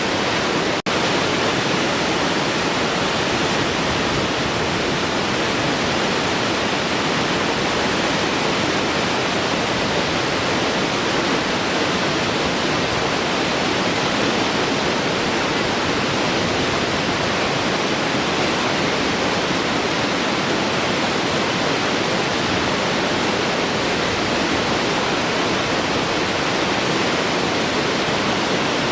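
Large waterfall flowing: a steady, even rush of falling water, broken by a momentary dropout about a second in.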